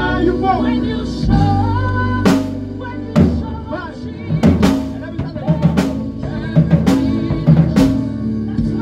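A live band playing an instrumental passage: drum kit with snare, rimshot and kick hits, several of them crowded together in the second half like a fill, over held bass notes and sustained chords.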